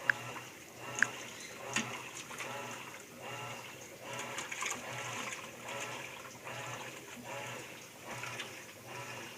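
Whirlpool 14 kg digital washing machine agitating: the motor hums through each stroke as the water sloshes, a little under one stroke a second, with three sharp clicks in the first two seconds. The owner considers the wash action too slow and weak, which they do not think is normal.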